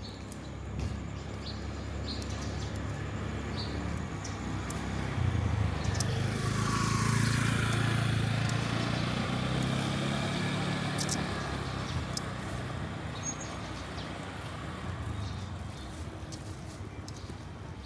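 A motor vehicle approaches and passes close by on the street: engine hum and tyre noise grow louder, peak about seven seconds in with a falling pitch as it goes past, then fade away.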